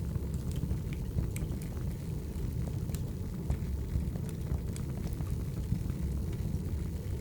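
Wood fire burning: a steady low rumble with sharp crackles and pops at irregular moments.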